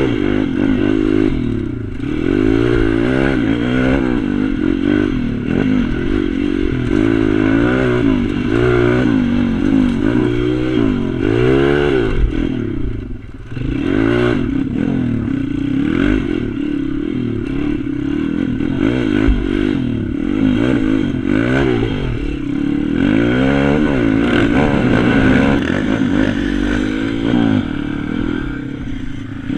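Pit bike engine revving up and falling back again and again as it is ridden round a track, with a brief lift off the throttle about halfway through.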